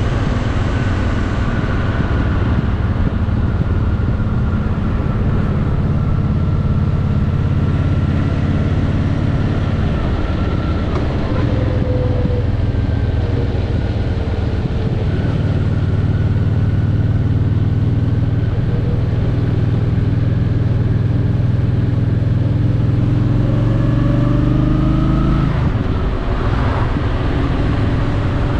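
Honda Shadow VT750's V-twin engine running as the motorcycle cruises, its note drifting slowly in pitch. Near the end the engine note climbs and then drops abruptly.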